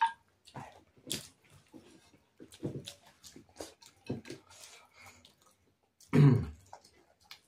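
Close-up eating sounds: chewing and lip smacks, with fingers working food on a plate, as short scattered clicks and smacks. About six seconds in there is one brief, louder sound from the mouth or throat.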